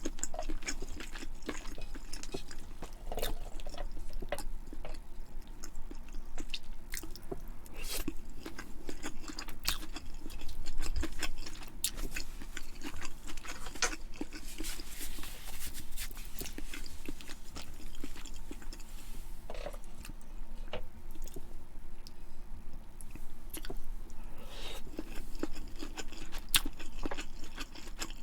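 A person chewing and eating food close to the microphone, with many small sharp mouth and food clicks scattered irregularly throughout.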